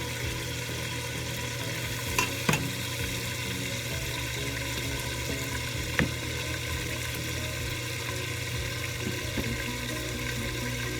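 Chicken pieces frying in hot oil in a pan, a steady sizzle, with three sharp clicks about two, two and a half and six seconds in.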